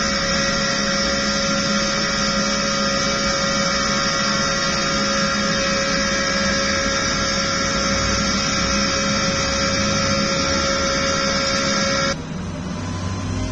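Race truck engine running at a steady high speed with an unchanging pitch, the sound switching abruptly to a lower, duller engine sound near the end.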